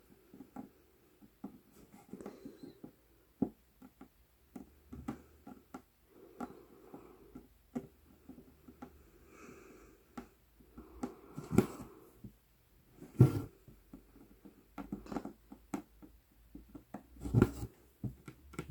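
Hand cross-stitching on 11-count Aida fabric: the needle pushing through the cloth and thread being pulled through make irregular clicks, taps and short rustles. A few louder knocks come about 11 and 13 seconds in, and again near the end.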